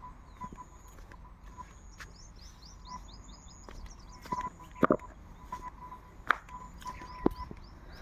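Forest birds calling: one bird repeats a short single note over and over, while another gives rapid runs of high, falling chirps. A few sharp knocks stand out, the loudest about halfway through.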